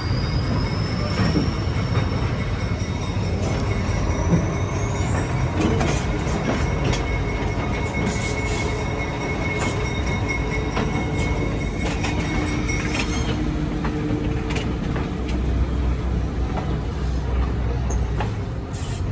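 Passenger train rolling slowly, heard from an open-air car: a steady low rumble of the running gear, with a high wheel squeal off the rails that climbs in pitch over the first five or six seconds and then eases down, and scattered clicks and knocks from the wheels.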